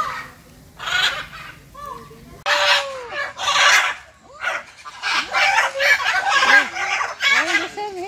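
Several birds calling, with short, repeated, harsh calls that come thicker and louder from about two and a half seconds in.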